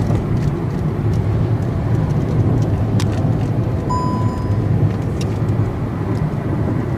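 Steady road and engine rumble inside a moving Hyundai i20 petrol hatchback at highway speed. A short high beep about four seconds in.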